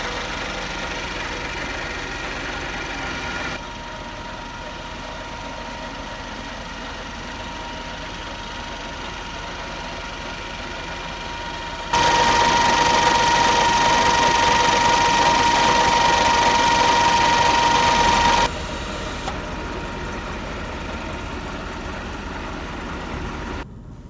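Scania R520's V8 diesel engine idling steadily, in several cut-together takes whose loudness jumps abruptly; the loudest stretch, with a strong steady hum, comes in the middle.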